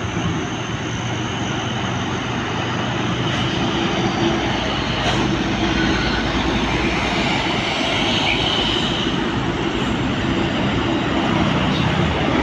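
Heavy diesel truck engine running as it passes slowly on the road, with tyre noise, growing slowly louder.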